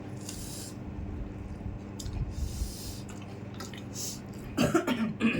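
A person coughing with a breathy rasp twice, then a short vocal sound near the end, over a faint steady hum.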